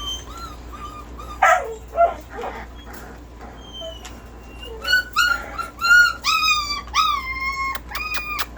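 Dogs whining and yipping: two short sharp yelps early on, then from about halfway a quick run of high-pitched whines, each rising and then falling away.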